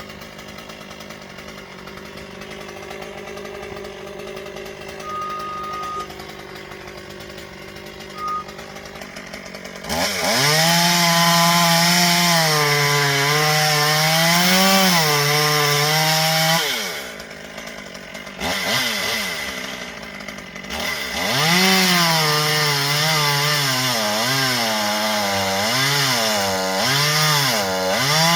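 Chainsaw running at low throttle, then from about ten seconds in opened up and cutting into poplar wood, its engine note dipping and recovering repeatedly as the chain bogs under load. It drops off briefly partway through, then bites back in and keeps cutting with the pitch swinging up and down.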